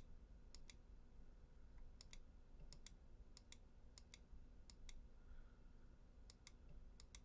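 Faint computer mouse clicks: about eight, unevenly spaced, most heard as a quick press-and-release pair.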